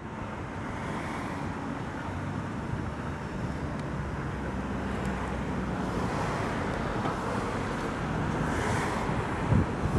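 Outdoor city rumble as a Berlin S-Bahn train of class 481 electric units approaches on the elevated viaduct, growing slowly louder over a background of traffic noise. Wind buffets the microphone near the end.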